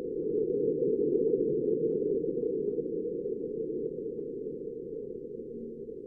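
Mars quake signal recorded by NASA InSight lander's SEIS seismometer, sped up to become audible: a low, rumbling hiss that swells over about a second and then slowly fades, with faint scattered crackles on top. It is seismic ground vibration made audible, not sound that travelled through air.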